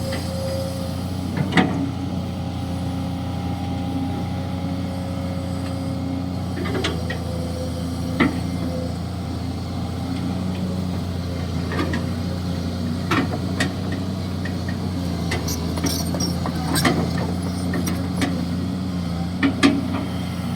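Kobelco SK200-6 Super hydraulic excavator's diesel engine running steadily while it digs, with occasional sharp knocks and clanks scattered throughout.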